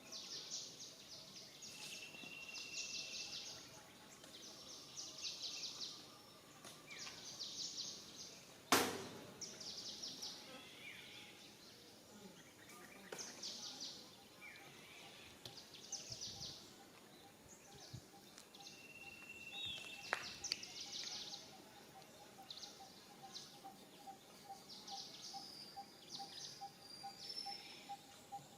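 Natural ambience of birds chirping and high insect-like trills coming in short bursts, with a couple of brief whistles and a faint steady pulsing call in the second half. A single sharp click about nine seconds in.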